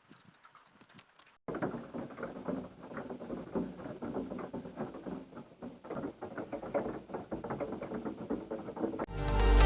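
Storm rain pattering densely, a fast irregular run of sharp hits, starting suddenly after a near-silent moment; electronic music comes in near the end.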